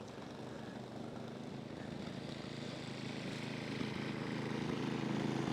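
Snowblower engine running steadily, growing gradually louder.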